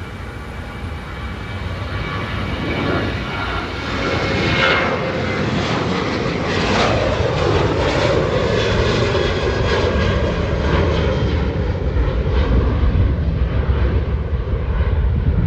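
Southwest Airlines Boeing 737 jet engines at takeoff power on the departure roll, growing steadily louder. A whooshing sound falls in pitch as the jet passes, about seven seconds in, and is followed by a deep, low rumble.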